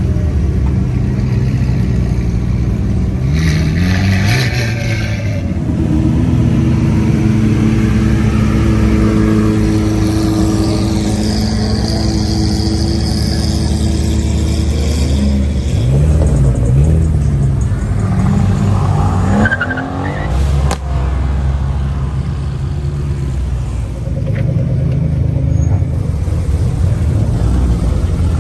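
Supercar engines running with a steady low rumble and revved several times: a rev about three seconds in, two quick blips around sixteen seconds and a rising rev just before twenty seconds.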